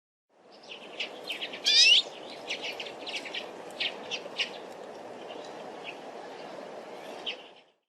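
A small songbird giving a string of short, high chirps, with one louder warbled call about a second and a half in, over a steady low background rush.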